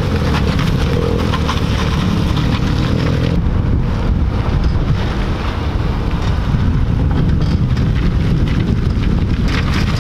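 Volvo 740 with a swapped-in Saab Viggen turbo engine running at low speed as it drives around, heard under heavy wind rumble on the microphone.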